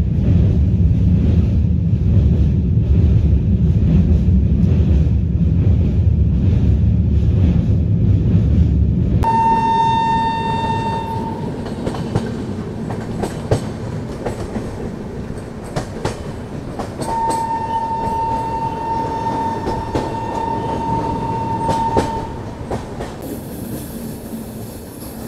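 Passenger train running across a river bridge, a loud low rumble for the first nine seconds. Then the train rolls on with scattered wheel clicks over the rail joints, and a train horn sounds twice: a short blast and then a longer one of about five seconds.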